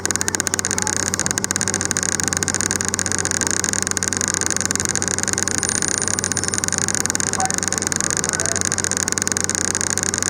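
Steady running noise of a train heard from aboard a passenger car as it rolls along: a constant engine drone with wheel-on-rail noise. A fast fluttering rattle in the first second or so dies away.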